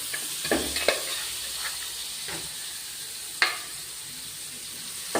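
Elephant yam pieces sizzling steadily in hot oil in a pan, with a cooking utensil scraping and knocking against the pan several times, the loudest knock about three and a half seconds in.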